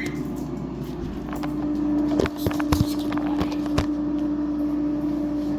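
A steady, even hum, with a handful of sharp clicks and knocks about two to four seconds in, like things being handled and set down.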